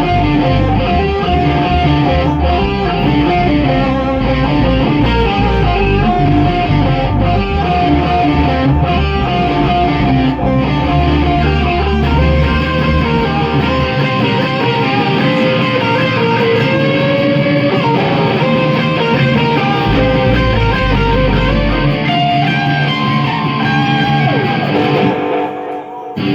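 Rock band rehearsal: electric guitars playing a melodic instrumental part over bass, with no singing. The playing stops shortly before the end.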